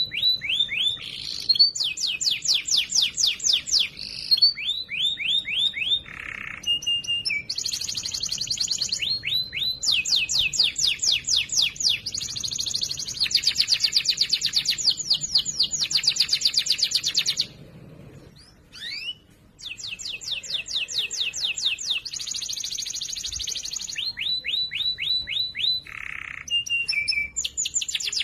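Domestic canary singing a loud, clear song of fast trills and rolls: one run of rapid repeated high notes after another, each lasting a second or two, with a brief break about eighteen seconds in.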